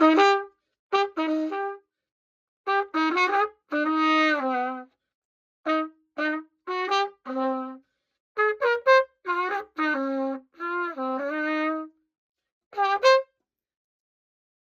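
A freshly repaired old pocket cornet played in short phrases of separate and held notes, with brief rests between phrases, stopping about a second before the end.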